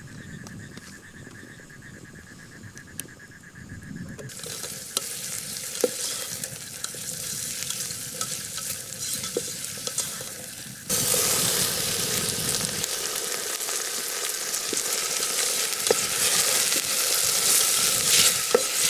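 Onion and green chilli sizzling as they fry in a pan, stirred with a spoon, with scattered clicks of the spoon. The sizzle grows louder about four seconds in and again abruptly around eleven seconds in.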